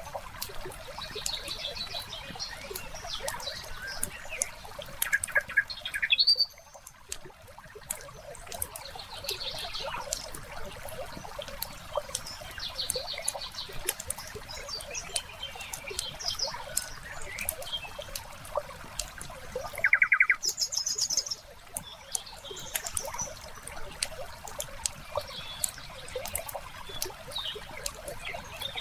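Wood fire crackling in a fireplace, with a steady run of small sharp pops and snaps, and songbirds chirping in short calls several times.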